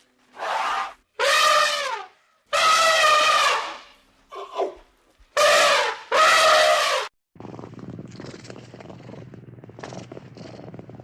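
Domestic cat meowing loudly several times in a row, long drawn-out meows that fall in pitch at the end. After about seven seconds the meowing stops and a steady purr takes over.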